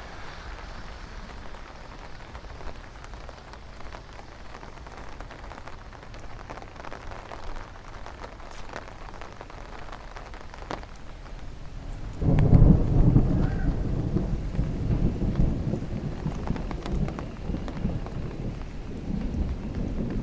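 Steady rain hiss, then about twelve seconds in a sudden loud clap of thunder that rolls on as a long, uneven rumble. It is the thunder of a nearby lightning bolt, which the walker takes for a positive strike.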